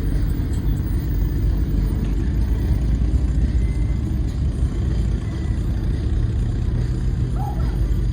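A car engine running with a steady deep rumble, a low tone growing steadier near the end.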